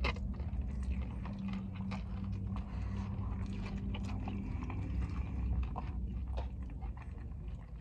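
Close-up chewing of a grain bowl, with small clicks and scrapes of a plastic fork in a fibre takeout bowl, over a steady low hum inside a car cabin.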